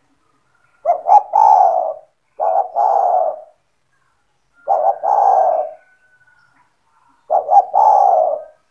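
Spotted dove (tekukur) cooing its song, four phrases about every two seconds, each a quick double note followed by a longer coo.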